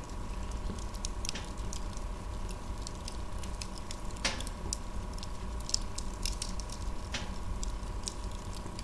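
Wood fire crackling: many small ticks and a few louder pops, about three seconds apart, over a steady low rumble.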